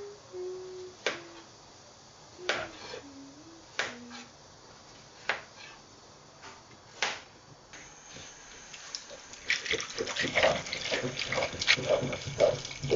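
Kitchen work sounds: a few separate sharp knocks of utensils or cookware, then from about nine seconds in a tap running into a sink with busy clattering as things are washed under it.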